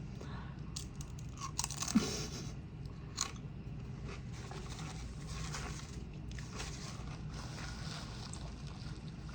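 A person chewing crunchy food close to the microphone, with sharp crunches and bites in the first three seconds, then steadier, softer chewing.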